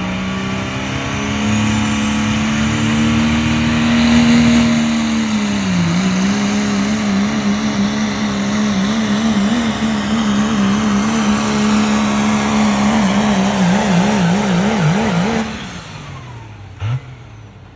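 Ford pickup's engine held at high revs under load in a truck pull. Its pitch dips about six seconds in and wavers quickly near the end of the run, then the engine drops off with falling pitch about fifteen seconds in.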